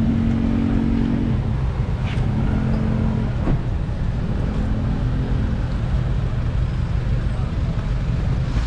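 Motor scooter engine running steadily amid road traffic, with another vehicle's hum coming and going in the first half.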